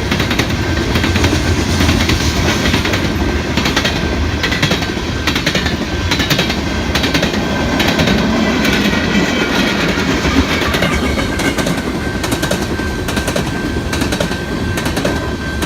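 Short freight train passing close by: a steady loud rumble of the rolling cars, with the wheels clicking over rail joints in a quick, uneven rhythm.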